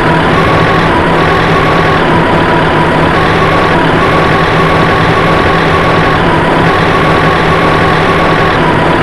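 Heavy truck engine running steadily at idle, with a high tone that steps back and forth between two close pitches every second or so.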